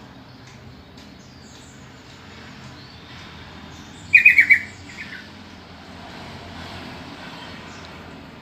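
Yellow-vented bulbul (trucukan) calling: a loud, quick burst of about four notes about four seconds in, then two fainter notes, with faint chirps in the background.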